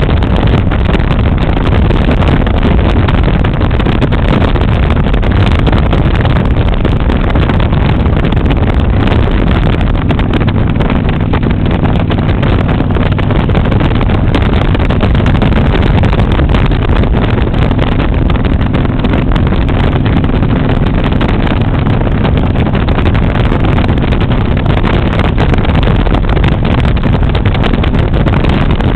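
Motorcycle riding steadily at road speed: a constant engine drone mixed with heavy wind rush over the microphone.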